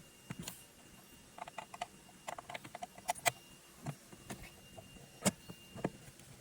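Irregular light clicks and taps, several in a quick cluster from about one and a half to three and a half seconds in, with a few louder single ones near the end.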